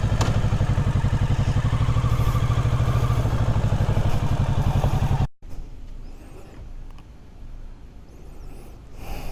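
Kawasaki Ninja 650 parallel-twin engine idling steadily with an even pulse. The sound cuts off abruptly about five seconds in, leaving only a much quieter background.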